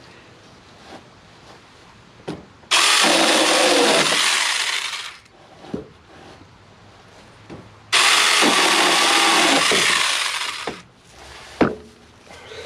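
Battery-powered 4-inch mini electric chainsaw running in two bursts of about two and a half seconds each, cutting small branches. Each burst starts suddenly and fades off at its end, with a few sharp clicks between the bursts.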